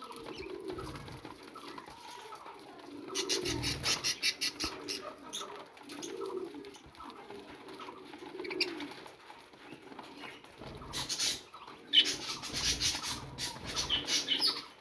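Birds calling with low, repeated cooing sounds, broken twice by bursts of rapid flapping or fluttering.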